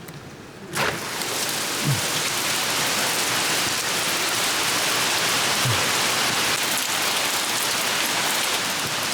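Steady rain falling, coming in about a second in as a dense, even hiss.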